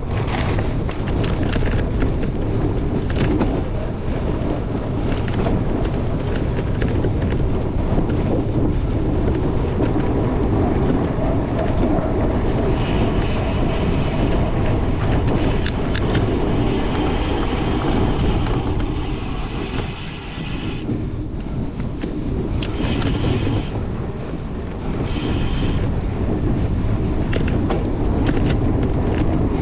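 Wind buffeting the microphone and the rumble and rattle of a cyclocross bike racing over rough ground, with many small knocks. A brighter, hissier noise comes in for several seconds in the middle and returns twice briefly.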